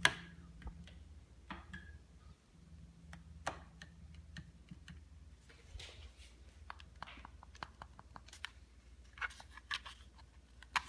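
Scattered faint clicks and light knocks, one every second or two, over a low steady hum.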